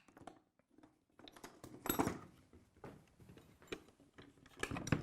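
Scattered light knocks, clicks and scrapes of workshop parts being handled on a bench, with the router switched off. The loudest clatter comes about two seconds in and again near the end.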